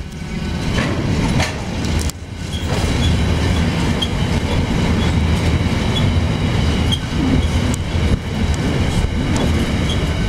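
Freight train wagons rolling past: a steady heavy rumble of steel wheels on the rails, with scattered clatter and light high-pitched squeaks about once a second.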